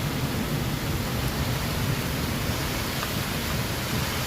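Steady rushing noise of a rainstorm, with rain and wind on the microphone, with no distinct events in it.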